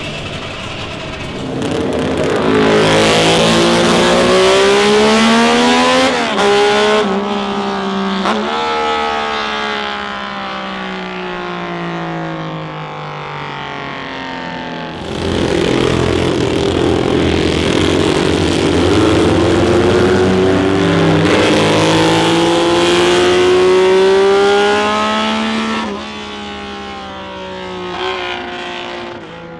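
Classic racing car engines accelerating hard uphill past the microphone, pitch climbing through the revs with drops at each upshift, then falling away. A second car follows about halfway through, revving up and shifting again before it fades.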